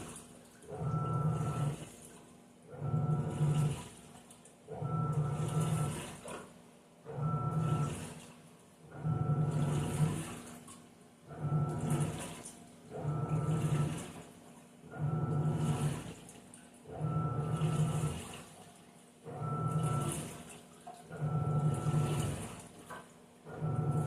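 Panasonic 14 kg washing machine washing on its duvet program: the motor drives the wash in pulses about every two seconds, each a low hum with a higher whine over it, with water sloshing.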